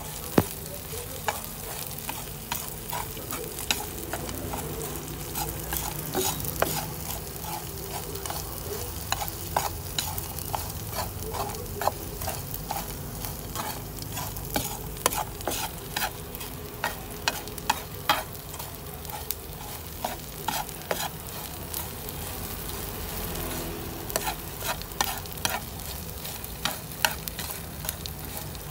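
Small anchovies frying on a flat metal pan with a steady sizzle, and frequent irregular sharp clicks and scrapes as chopsticks stir them against the pan.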